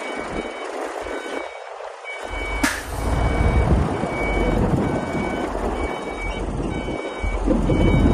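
Reversing alarm on heavy earth-moving machinery beeping in a steady on-off pattern, about one beep a second, over a diesel engine running. The engine grows louder about two seconds in, and there is a sharp click near the middle.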